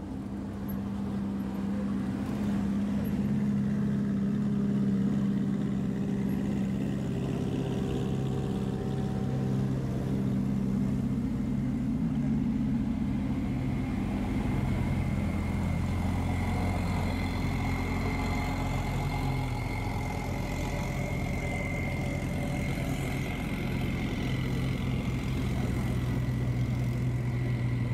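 Sports-car engines running at low revs as the cars creep past one after another, a steady deep drone whose pitch shifts partway through as a different car takes over.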